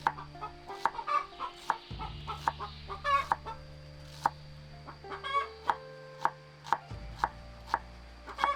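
Chickens clucking in short calls every second or two, over a run of sharp knocks about twice a second. Soft background music with sustained low notes underneath.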